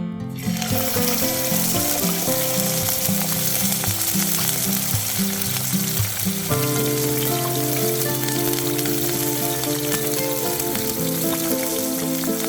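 Meat frying: a steady sizzle that comes in about half a second in, with background music underneath.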